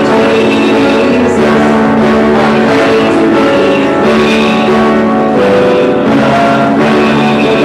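A man singing a worship song to guitar accompaniment, with long held notes over the guitar.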